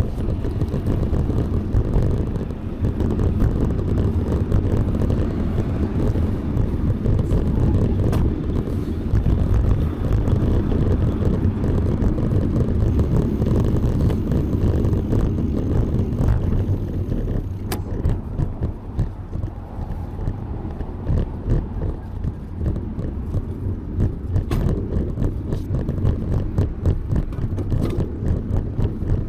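Wind buffeting a moving bicycle's camera microphone, a steady low rumble mixed with road traffic noise, with a couple of faint clicks.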